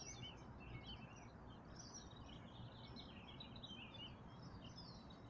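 Songbirds chirping and singing faintly in quick, varied notes throughout, over a steady low rumble of background noise.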